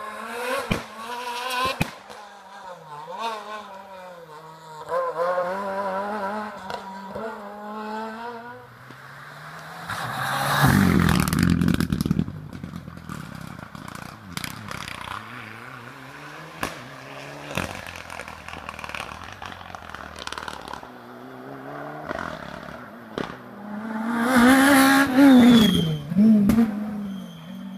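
Rally car engines on a closed special stage, revving hard and changing gear so that the pitch climbs and drops again and again. Cars pass loudly and close about ten seconds in and again near the end.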